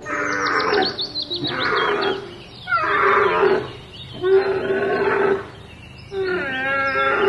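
An animal calling loudly five times in a row, each call about a second long, with short gaps between.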